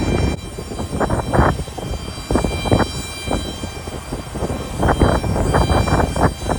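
Jet airliner engines running, a steady high-pitched whine over an uneven low rumble.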